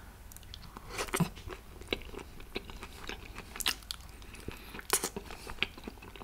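Close-miked mukbang eating sounds: a person chewing a mouthful of food, with irregular wet mouth clicks and smacks, the sharpest about a second in and again near five seconds.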